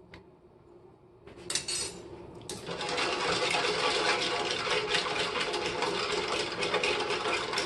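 Pastry cream being stirred rapidly in a small saucepan, a fast, even scraping rhythm of utensil on pot that sets in about two and a half seconds in after a few light knocks. The lemon cream is heating and beginning to thicken.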